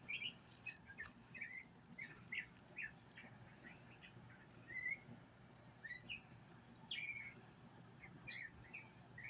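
Small songbirds chirping and singing, short whistled notes scattered throughout, faint.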